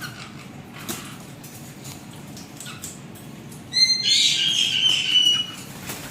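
Caique parrot giving a loud, harsh screech about four seconds in, lasting about two seconds, over scattered small clicks and a faint low noise.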